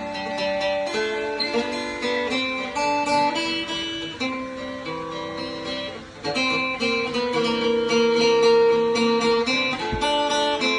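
Acoustic guitar music, notes plucked and strummed, with a brief drop in level about six seconds in.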